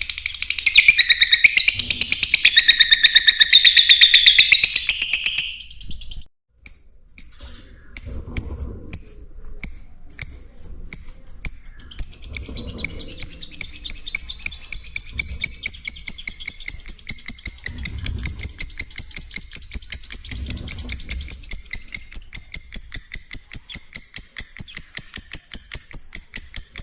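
Lovebirds chirping. First comes a loud burst of dense, high chattering, then after a short break a single high chirp repeated, quickening into a fast, steady trill.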